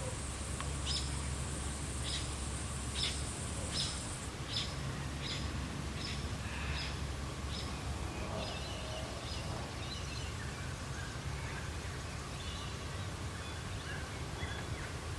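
Birds calling in Australian bush at dusk: one bird repeats a short, sharp call about once a second for several seconds, followed by fainter scattered chirps. A steady high-pitched hiss stops about four seconds in, over a steady low rumble.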